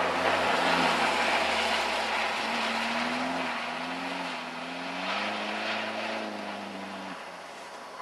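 Car engines revving hard as cars slide sideways on a snow-covered ice track, the engine note stepping up and down in pitch over a steady rushing noise of tyres and spray.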